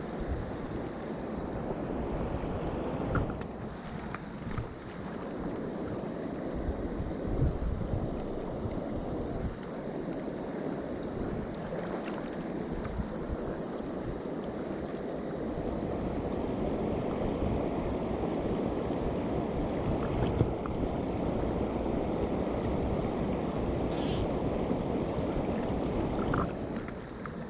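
Mountain stream running over rocks: a steady rush of flowing water, with a few brief low bumps.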